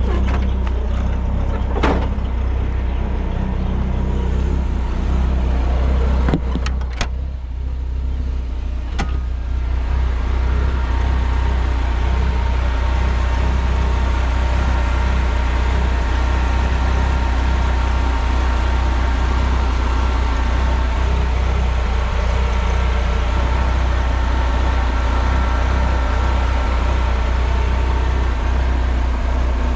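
Ramp truck's engine idling steadily while stationary, warm, with its radiator fan running at high speed to bring the coolant temperature down. A few sharp clicks come between about six and nine seconds in, after which a steadier whirr with a faint whine carries on over the idle.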